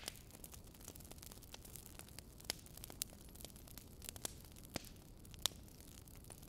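Wood fire crackling: irregular sharp pops and snaps, a few of them louder, over a faint steady hiss.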